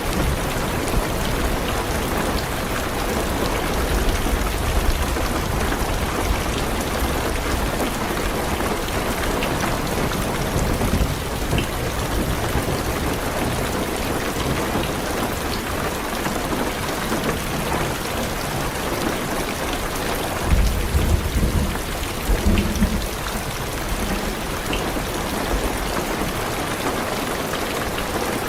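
Heavy rain drumming steadily on a car's roof and windows, with low thunder rumbling under it at times and loudest in a roll about two-thirds of the way through.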